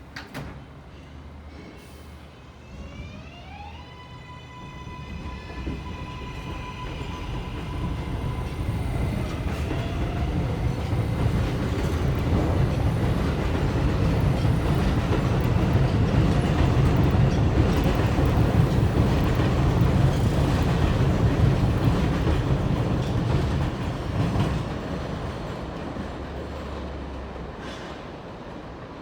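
Kawasaki R188 subway train pulling out: its electric traction motors whine, rising in pitch for a couple of seconds and then holding a steady tone. The rumble of wheels on rail builds to a loud run with some clickety-clack past the middle, then fades near the end.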